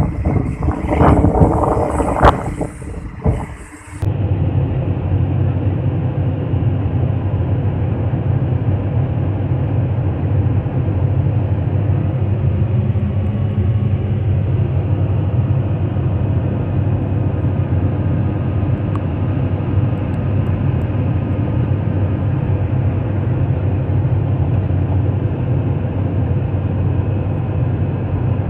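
Diesel engine of a Sany SR150C rotary drilling rig running steadily as the crawler rig travels, a constant low drone. For the first four seconds, before an abrupt change, a rougher, noisier sound with sharp knocks.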